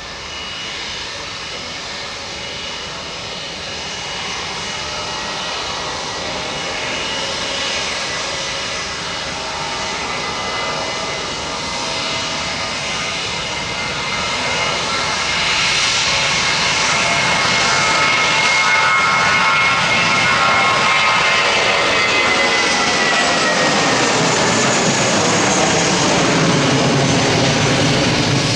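Airplane engines passing close by, growing steadily louder, with a whine that drops in pitch about two-thirds of the way through as the aircraft goes past, followed by a deepening rumble.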